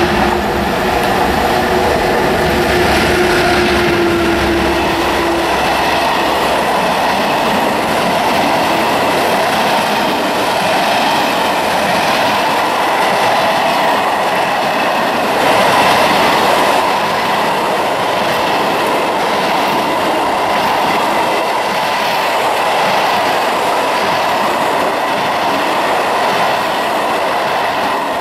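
PKP ET21 electric locomotive and a long train of empty flat freight wagons rolling past close by, a loud, steady rush of wheels on rail. A steady tone sounds through the first five seconds or so as the locomotive goes by, and the noise starts to fade just as the last wagons pass.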